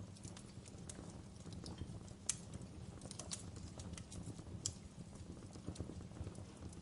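Wood fire in a fireplace crackling, with irregular sharp pops over a low steady rumble; the loudest pop comes about two seconds in and another just before five seconds.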